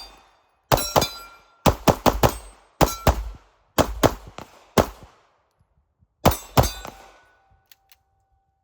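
Chunk-ported Atlas Hyperion 2011 pistol firing about a dozen shots in quick pairs and triples, each a sharp crack with a short echo.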